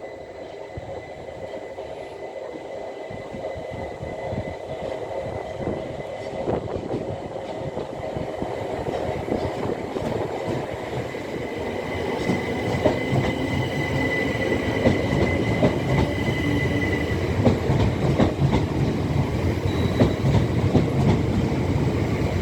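Electric passenger train approaching along the platform, growing steadily louder, with a steady high whine and wheels clicking over the rail joints more and more as it nears.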